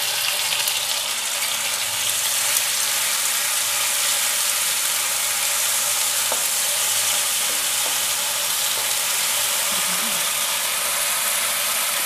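Ginger-garlic paste, chopped tomato and green chillies frying in hot oil in a non-stick kadai, a steady sizzling hiss, stirred with a wooden spatula.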